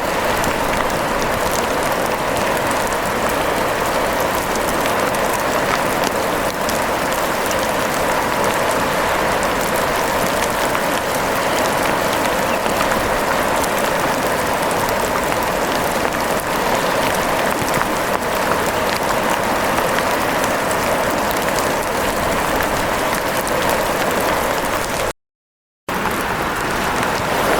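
Steady rain falling, an even hiss with fine patter of drops. The sound cuts out completely for under a second near the end.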